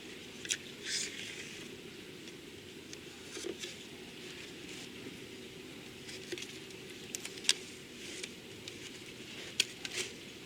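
Scattered light clicks and a few short rustles of workpieces and tape being handled by hand, over a faint steady low hum.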